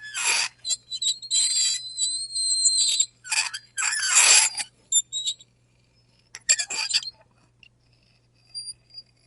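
Fork scraping across a plate in a run of separate strokes, several with a high, thin squeal. The strokes stop about seven seconds in, leaving a quiet spell with a few faint ticks.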